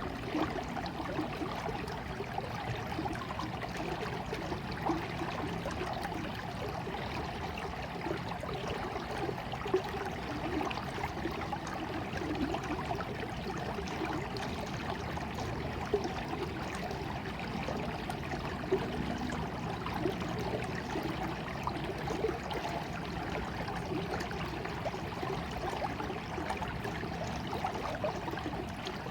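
Water flowing in a small stream, a steady babbling trickle with a few brief louder splashes.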